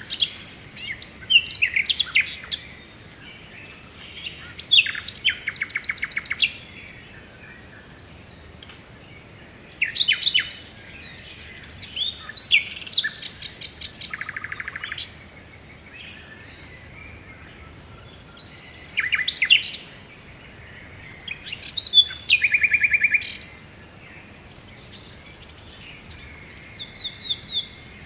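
Songbirds singing in bouts every few seconds: quick chirps, glides and rapid trills, with a faint steady high tone underneath.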